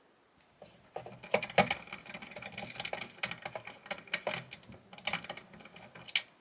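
Small metal tools clicking and clattering irregularly as they are picked through, starting about a second in and stopping just before the end.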